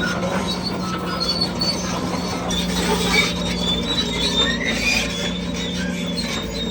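Crawler bulldozer running with a steady engine drone, overlaid by scattered short high squeaks and squeals from its steel tracks as it moves.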